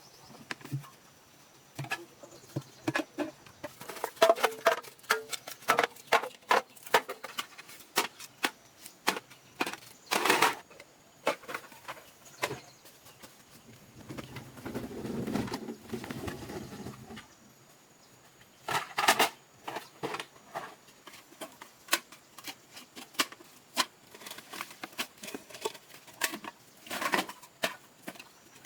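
Irregular series of sharp knocks and clicks, like objects being handled and set down, with a denser scraping or rustling stretch about halfway through.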